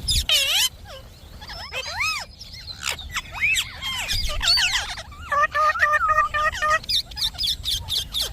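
Indian ringneck parrot calling: a string of shrill, arching squawks, then about five seconds in a run of short repeated notes, turning into fast chattering near the end.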